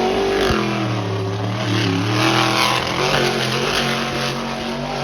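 Monster truck engine at full throttle, accelerating hard down a straight race track, its pitch climbing and then dropping back more than once.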